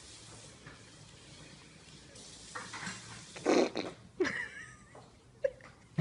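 A baby farting once, a short loud fart about three and a half seconds in, followed by a brief sliding sound.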